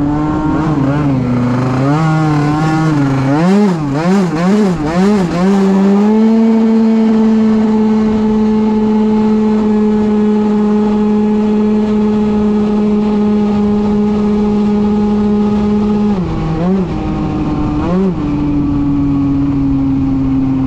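Tuned 94cc two-stroke single-cylinder engine of a Yamaha Aerox scooter (Big Evolution kit, Big Evolution exhaust, 28mm Keihin carburettor) revving. Its pitch rises and falls several times, then holds steady at high revs for about ten seconds. It drops with two short blips and settles at a lower steady pitch.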